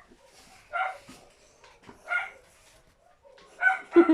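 A dog barking: a few short barks about a second or more apart, two of them close together near the end.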